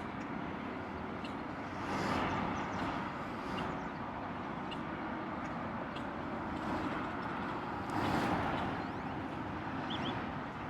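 Steady outdoor road-traffic noise, an even hiss that swells twice as vehicles pass.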